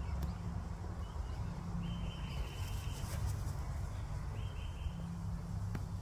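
A bird gives two drawn-out, even calls, the first about two seconds in and lasting roughly a second, the second shorter near the five-second mark, over a steady low rumble, with a few faint clicks around the first call.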